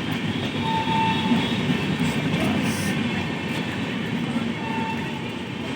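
Mithila Express passenger train running on the rails past the platform, a steady rumble from the coaches.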